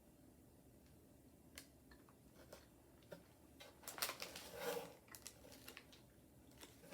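Mostly near silence with a few faint clicks, then a short spell of crinkling and mouth sounds about four seconds in, from eating a packaged mini cake out of its plastic wrapper.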